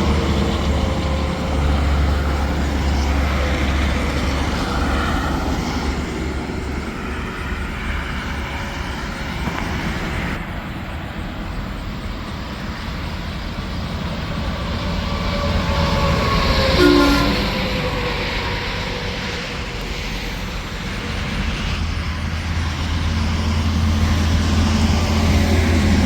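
Interstate highway traffic with trucks and cars passing: steady tyre and engine noise that swells and fades as vehicles go by. There is a short, sharper peak about two-thirds of the way through.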